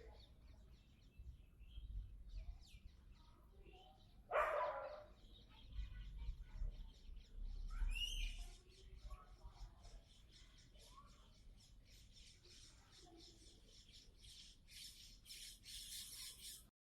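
Faint bird calls: a few short separate calls, the loudest a little over four seconds in and another about eight seconds in, with a run of rapid clicks near the end.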